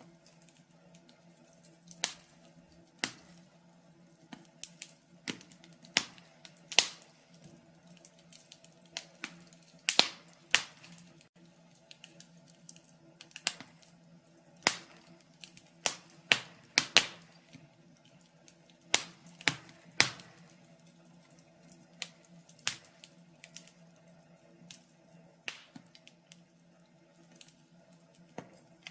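Wood fire crackling: irregular sharp pops and snaps, several close together in places, over a faint steady hum.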